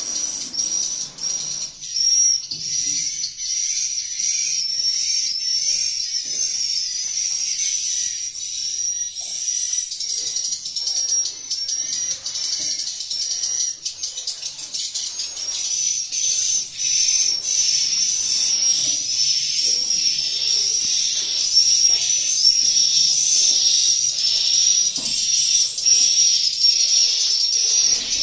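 Many edible-nest swiftlets twittering together: a dense, unbroken chatter of rapid high chirps.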